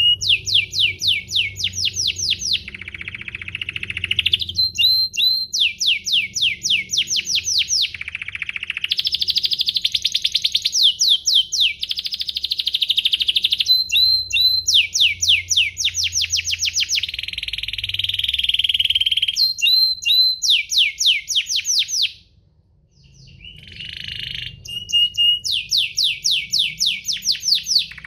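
Domestic canary singing a long, continuous song: runs of fast, sharply falling whistled notes alternate with dense rolling trills, with a short break about four-fifths of the way through.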